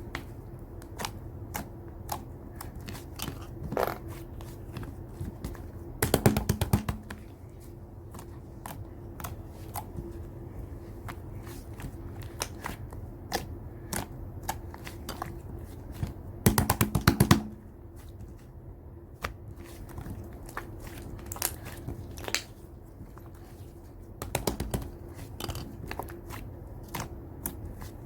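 Slime being squeezed, stretched and poked by hand, giving scattered sticky clicks and pops. About six, sixteen and twenty-four seconds in there are short bursts of rapid crackling clicks.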